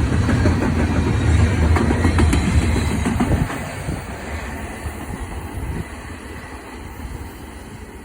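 Freight train of autorack and intermodal cars rolling past, with a heavy rumble and wheels clicking over the rails. About three and a half seconds in the rumble drops sharply and then fades away.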